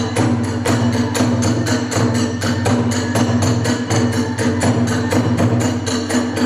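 Hiroshima kagura accompaniment: drum and small hand cymbals beating a fast, even rhythm of about four to five strokes a second under a held pitched tone.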